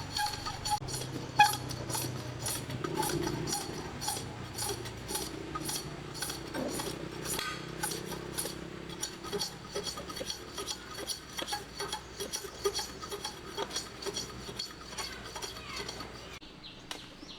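Light clinking and scraping, repeated several times a second: small objects or tools being handled.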